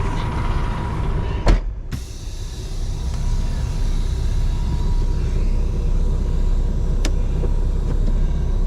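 Semi truck's diesel engine running with a steady low rumble, building slightly after a few seconds. A single sharp knock sounds about one and a half seconds in.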